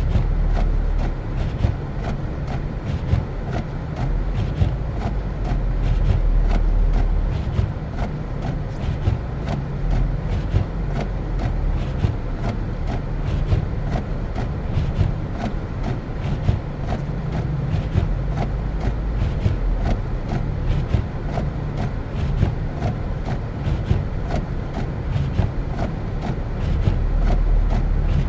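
A car driving on a snow-covered road: a steady low rumble of engine and tyres with a fine, constant crackle, swelling louder briefly a few times.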